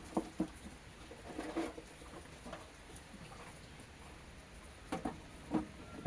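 A few short, dull knocks and rustles of seedling trays being handled and set down, two near the start and a cluster near the end.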